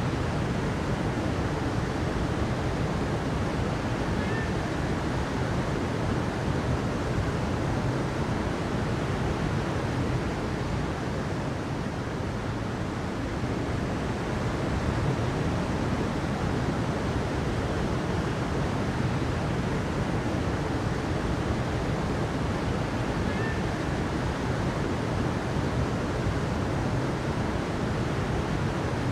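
Steady rushing water, a constant even wash weighted to the low end, without breaks.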